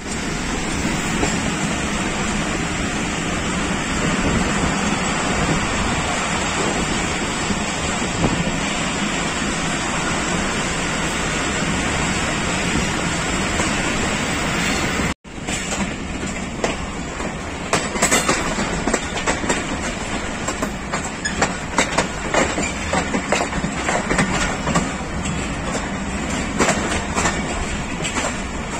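A passenger train running, heard from an open carriage door: a steady rush of wheel and running noise. After a brief cut about halfway, the wheels clatter over rail joints and pointwork in quick, irregular clicks and knocks.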